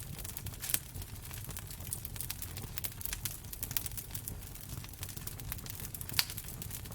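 Wood fire crackling: irregular sharp pops and snaps over a low rumble, with two louder pops, one about a second in and one near the end.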